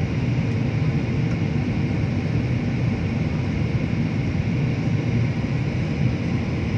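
Aircraft cabin noise heard from inside a passenger plane in flight: a steady rumble with a hiss from the engines and airflow.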